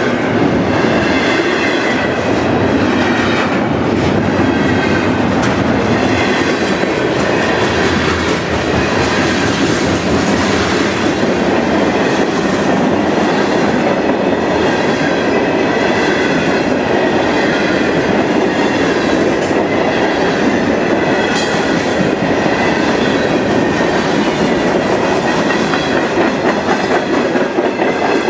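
A long freight train's cars, double-stack container cars and then hopper cars, rolling steadily past at speed: a continuous rumble and clatter of steel wheels on the rails.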